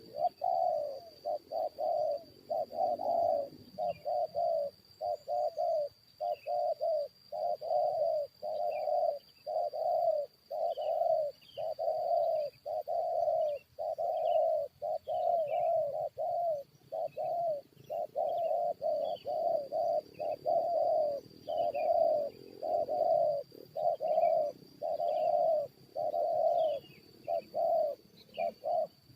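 Spotted doves (tekukur) cooing in a fast, unbroken run of low coos, about two to three a second, stopping just before the end. Faint high chirps of small birds and a steady high insect whine sound behind it.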